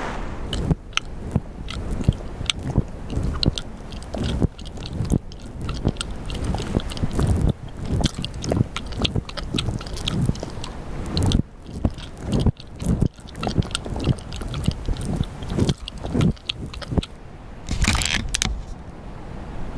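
Irregular crunching and scraping sounds.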